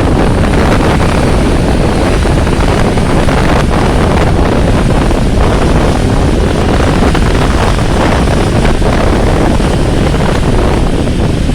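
Rain falling in a loud, steady rush, with a low rumble of wind on the microphone.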